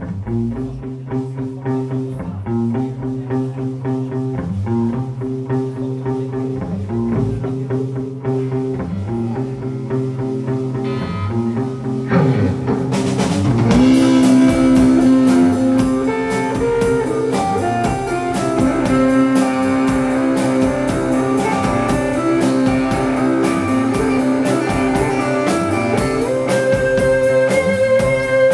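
Live rock band playing an instrumental intro: a guitar repeats a chord pattern alone, then about twelve seconds in the drums and the rest of the band come in and the music gets louder and fuller.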